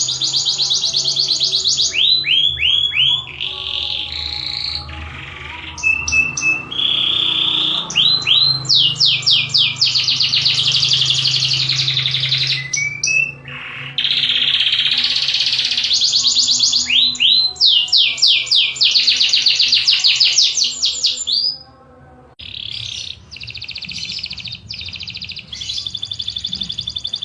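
Domestic canary singing a long, high-pitched song of rapid trills and rolls, rows of quick repeated notes and falling sweeps, with a few short breaks.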